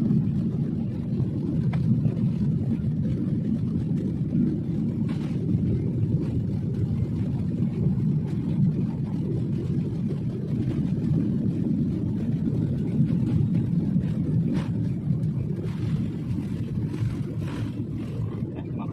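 Steady low cabin noise of an airliner in flight: the engines and airflow make an even rumble that stays level throughout, with a few faint small clicks in the cabin.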